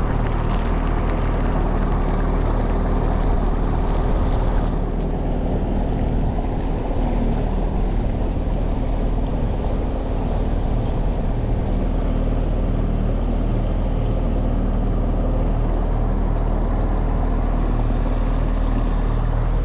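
Mercury 9.9 hp outboard motor running at a steady speed, with a higher hiss over it that drops away about five seconds in.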